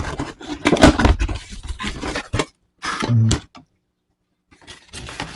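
Cardboard and plastic packaging rustling and being handled as a pet water fountain is unboxed, with a few knocks. The sound drops out completely for about a second past the middle, then the handling resumes.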